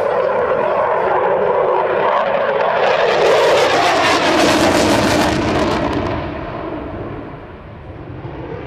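Jet aircraft flying past: a rushing jet noise swells to a peak about three to six seconds in, then drops in pitch and fades as it goes away.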